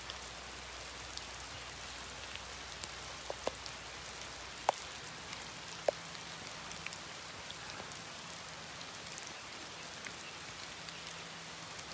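Light, small-drop rain falling steadily, an even hiss with a few sharp ticks of drops landing close by.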